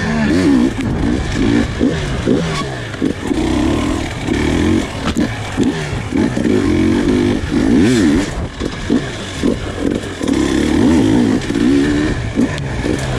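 Husqvarna TE300 two-stroke enduro motorcycle engine revving up and down in quick throttle blips, with a few sharp knocks in between.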